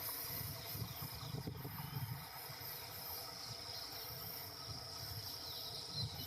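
Insects chirping steadily at a high pitch over a faint, uneven low rumble.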